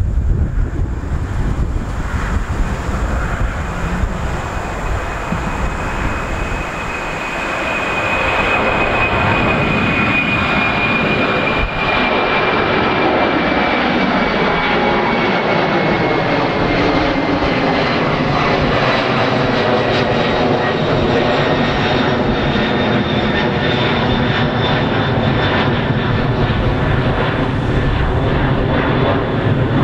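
The General Electric CF6 turbofans of a Boeing 767-300 running at high power, a loud, steady roar with a high whine. About seven seconds in, the roar grows louder and the whine then slowly falls in pitch.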